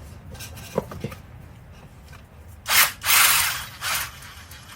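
Handheld power tool, most likely a drill-type driver on the motorcycle's fasteners, running in three short bursts near the end, after a couple of small clicks of metal parts.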